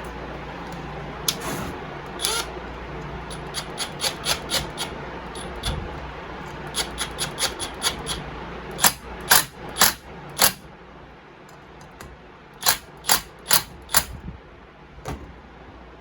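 Irregular sharp metallic clicks and taps of hand tools and small metal parts being handled on a workbench, with a quick run of four louder clicks near the end.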